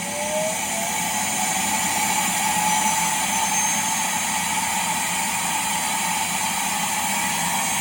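Self-emptying vacuum base station's suction motor running loud and steady as it tries to empty the vacuum's dust bin, a high whine held level over a rushing hiss. The suction pulls no dirt out, which the owner takes for a blockage.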